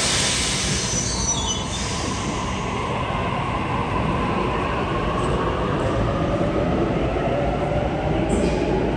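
Sydney Trains double-deck electric train moving through the station: steel wheels squeal in high tones that fall in pitch over the first two seconds, over a steady rumble, with a low whine rising in pitch in the second half.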